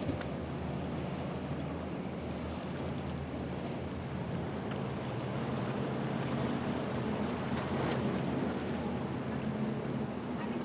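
Boat engine drone over a steady wash of surf and wind noise on the microphone, the engine note rising in pitch in the second half as a boat runs through the inlet.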